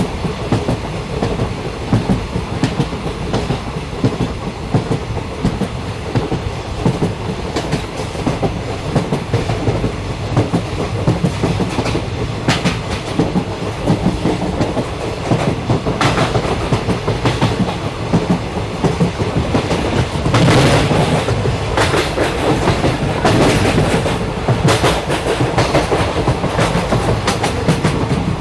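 Passenger train running along the track, heard from inside a carriage: a steady rumble with the wheels clicking over rail joints. It grows louder, with sharper clacks, about two-thirds of the way through.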